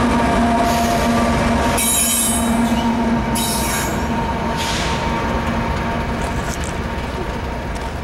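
Rear distributed-power diesel locomotives of a loaded coal train passing and moving away: a steady engine drone, with several short high-pitched hisses from the wheels, fading after the end of the train goes by about two seconds in.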